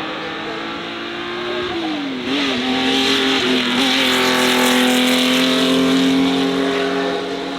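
A race car's engine held at steady high revs, dipping in pitch about two seconds in and then running louder and steady with a rushing hiss over it.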